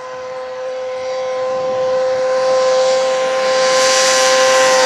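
Kawasaki ZZR600 inline-four sport bike with a Two Brothers aftermarket exhaust, held at high revs as it approaches at very high speed: one steady high-pitched engine note that grows steadily louder, with a rising rush of wind and tyre noise.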